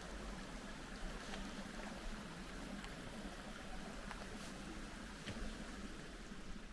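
Steady rushing outdoor noise: wind buffeting the microphone over the sound of a running mountain stream (gill), with a few faint ticks.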